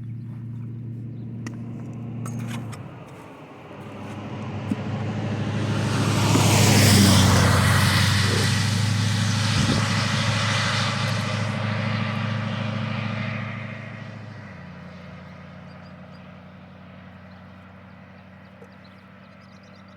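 A road vehicle passes by, building up over a few seconds, loudest about seven seconds in, then fading away, over a steady low hum.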